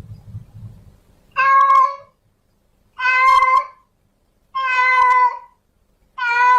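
Female cat in heat calling: four drawn-out meows, evenly spaced about every one and a half seconds, each held at a steady pitch.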